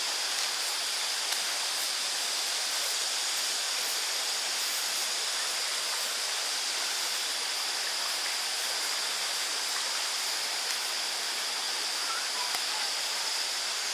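Steady rushing of a stream running high after heavy rain, with a steady high insect drone over it.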